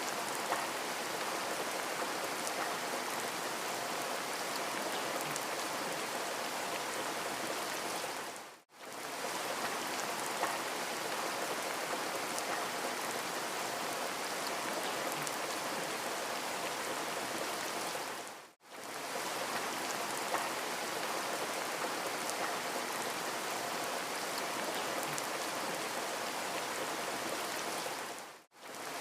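Steady rain falling, an even hiss with faint scattered drop ticks. About every ten seconds it briefly fades to near silence and back, where the recorded loop restarts.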